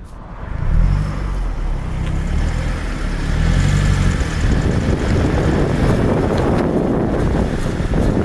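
Mazda 3 MPS's turbocharged four-cylinder engine pulling away with rising revs, then giving way to a steady rushing noise of the car moving along.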